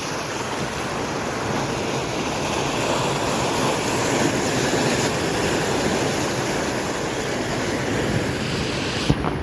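Large ocean swell surging and breaking on the shore: a steady rush of surf that builds about halfway through. A single sharp knock near the end.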